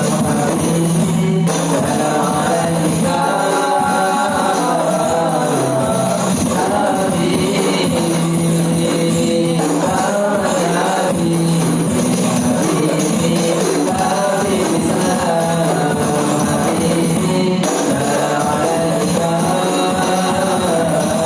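Rebana frame drums played in a steady rhythm, with voices singing a melody over them.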